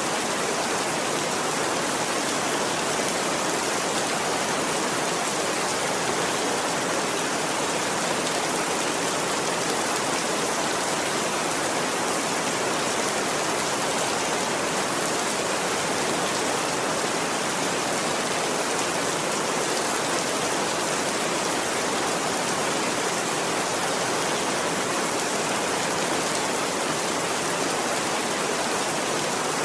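Steady rain falling, an even, unbroken hiss without separate drops or crackles standing out.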